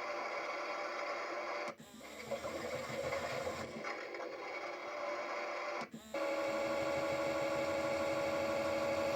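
Small electric motor of a toy Bosch washing machine running with a steady whine as the drum turns, cutting out briefly twice, about two and six seconds in, then holding an even pitch.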